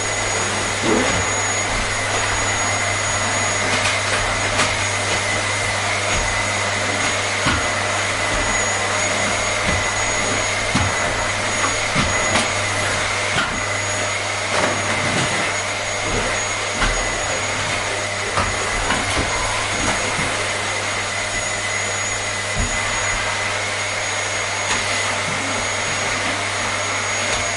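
Vacuum cleaner motor running steadily, a constant rushing noise with a high whine held on one pitch and a low hum beneath. Small irregular clicks and knocks come through it every second or so.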